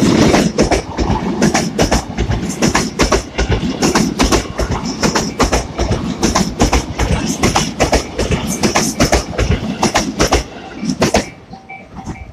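A train passing close by at a level crossing, its wheels clattering rapidly over the rail joints; the clatter stops about eleven seconds in as the last car goes by.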